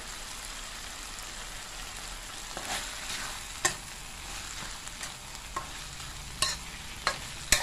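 Ground pork and tomato chili paste sizzling in a wok, with a steady hiss. From about three seconds in, a spatula stirs it, scraping and knocking sharply against the wok several times.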